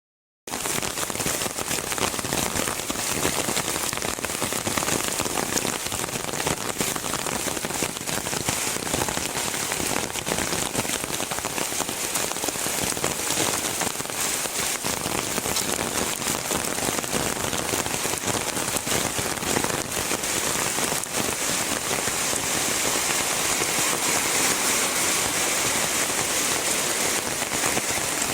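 Heavy rain falling steadily, a dense hiss thick with the ticks of individual drops, coming in about half a second in and growing a little louder near the end.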